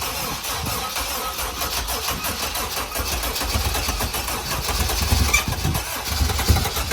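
Starter cranking a freshly swapped Honda K-series four-cylinder on a first-start attempt, turning it over without it yet running on its own. The cranking grows a little louder and more uneven from about five seconds in.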